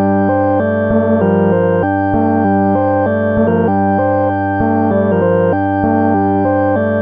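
Moog Subharmonicon analog synthesizer playing a sequenced patch in just intonation tuning: a steady low bass tone held under a pattern of notes that steps to a new pitch every fraction of a second.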